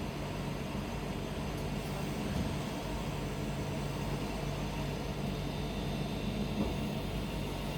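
London Northwestern Railway electric multiple unit pulling away from the platform: a steady drone of motors and wheels, with a faint higher whine coming in about five seconds in.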